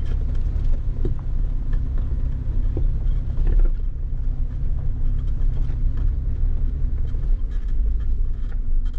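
A four-wheel-drive vehicle driving: a steady low engine and tyre rumble with scattered light knocks.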